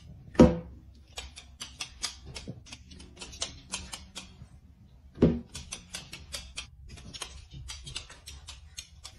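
Two sharp balloon pops, a loud one about half a second in and a second one about five seconds in. Between them comes a quick, light clicking.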